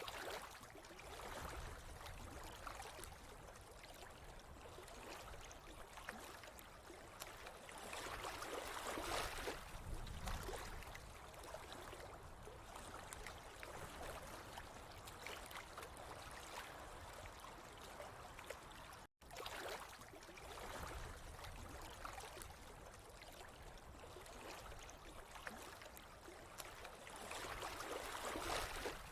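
Running water trickling and gurgling steadily, swelling louder twice. The sound cuts out for an instant about two-thirds of the way through.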